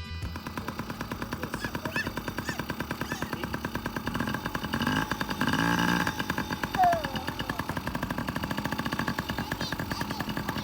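Small kids' dirt bike engine running with a fast, even putter, getting louder for a stretch around the middle as it revs up, and a brief high squeak about seven seconds in.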